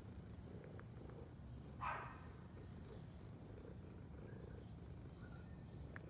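Domestic cat purring: a low, steady fluttering rumble. About two seconds in there is one brief, louder higher-pitched sound.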